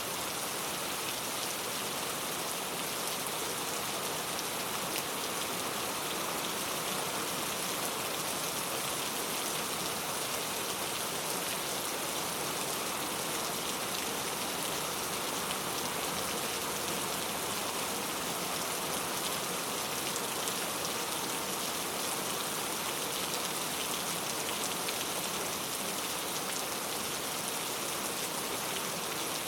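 Very heavy rain falling, a dense steady hiss of drops on a surface with faint scattered patters and no let-up.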